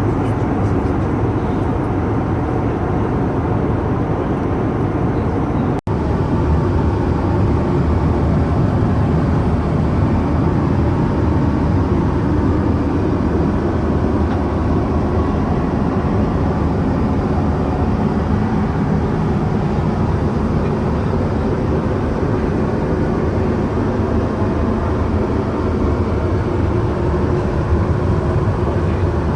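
Steady low cabin noise of an Airbus A320 heard from inside the passenger cabin: engine and airflow noise, broken by a momentary cut about six seconds in.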